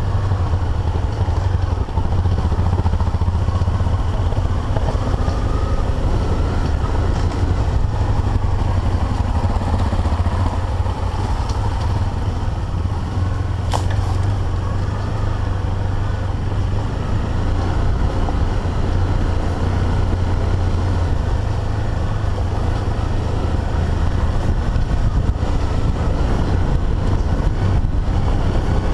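Single-cylinder dual-sport motorcycle engine running steadily under way on a dirt trail, heard from the bike itself, with wind noise on the microphone. A single sharp click about 14 seconds in.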